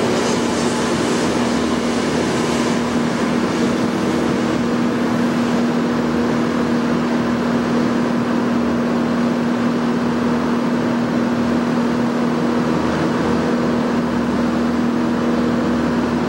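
Rumble and rattle of a receding Amtrak passenger train's cars on the tracks, fading out over the first few seconds, over a loud, steady droning hum with a constant low tone.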